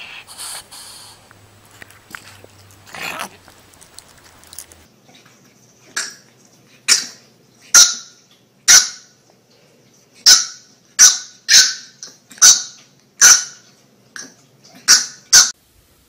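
A puppy barking in short, sharp yaps, about a dozen at roughly one a second, starting about six seconds in, after a few seconds of quieter scuffling.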